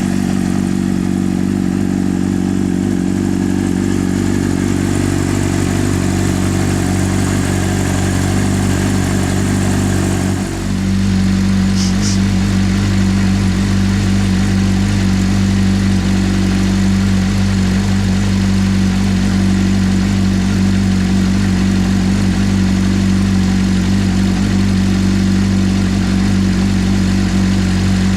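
Honda CBR600RR's inline-four engine idling steadily through dual Arrow aftermarket exhausts, warming up after a cold start. About ten seconds in the sound dips briefly, then carries on a little louder.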